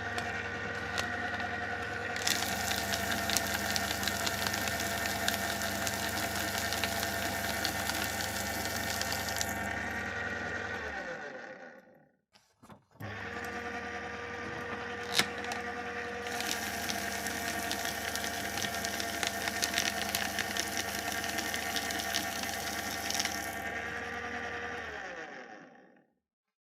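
Electric paper shredder run twice: each time the motor starts with a steady hum, paper is fed through for several seconds with a dense crackling and tearing over the hum, and then the motor runs empty briefly and stops. The first run ends about 11 seconds in; the second starts about a second later and winds down near the end.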